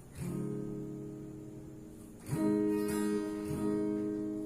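Acoustic guitar playing chords, with a new chord struck about two seconds in and left ringing.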